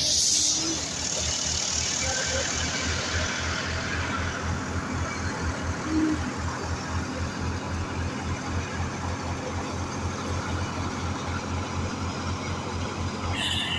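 Tractor engine running steadily with an even, low pulsing beat. A brief hiss near the start fades away over the first few seconds.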